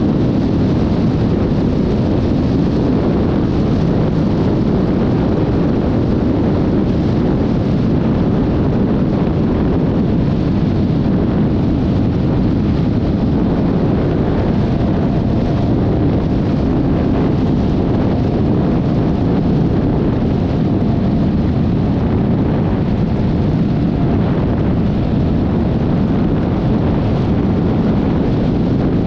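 Yamaha XMAX 300 scooter under way at a steady speed: continuous wind rushing over the microphone mixed with engine and road noise, with no change in pace.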